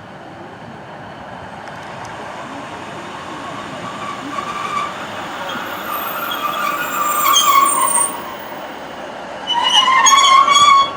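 Class 156 Sprinter diesel multiple unit running into the station, growing steadily louder as it approaches. Its brakes squeal in high, wavering tones as it slows, loudest about a second before the end, then the sound cuts off suddenly.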